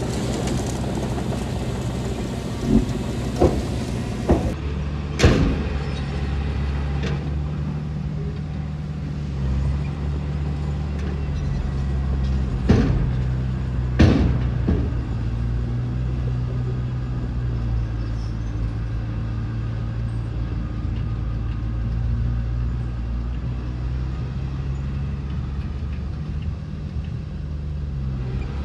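Diesel engine of a heavy earthmoving machine running steadily under load, with several sharp knocks in the first half.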